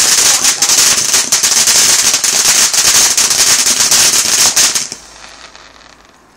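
A firework going off with continuous loud crackling over a high hiss, many rapid sharp cracks, cutting off suddenly about five seconds in.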